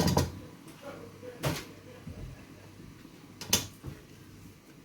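Kitchen clatter while cooking: three sharp knocks, about a second and a half to two seconds apart, with smaller taps between.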